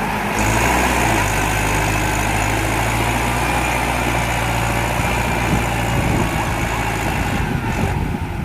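Tractor diesel engine running steadily at a constant low speed, loud and close, its pitch holding level throughout.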